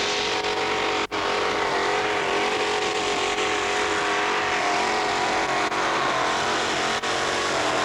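Tractor-pull engine running hard at high revs, holding a steady, slightly wavering pitch, with two brief dropouts in the recording.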